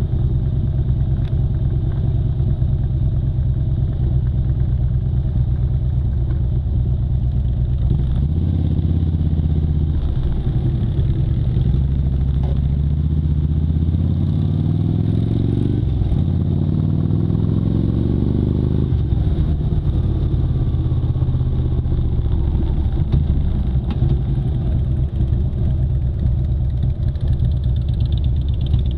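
Motorcycle engine running under way, accelerating with the pitch rising from about a third of the way in, shifting up once around the middle and rising again, then settling back to a steady cruise.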